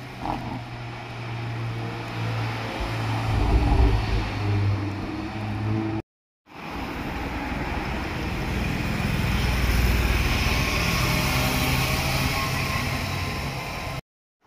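Motorcycles riding past, heard as two separate clips: in the first, an engine note that rises and falls; after a short break of silence, a second pass swells louder and then fades a little before cutting off.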